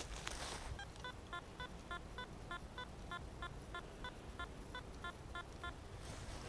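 Handheld metal-detecting pinpointer beeping rapidly, about four short beeps a second, then stopping near the end: it is signalling a metal target in the ground.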